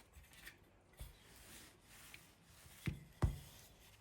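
Quiet kitchen handling on a wooden surface: faint rubbing with a soft knock about a second in and two louder knocks close together near the end.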